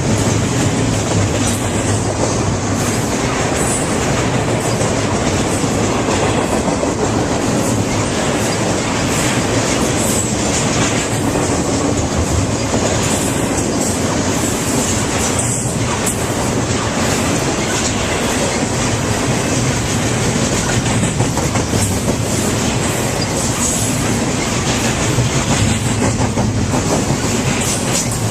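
A train rolling past on the rails, loud and steady with no let-up.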